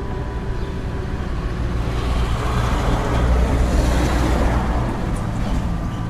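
Blizzard wind blowing in a gust with a deep rumble: it swells to its loudest about halfway through, then eases off.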